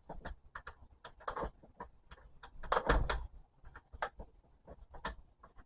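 Scattered knocks, clicks and clunks of things being handled, with a heavier thump about three seconds in.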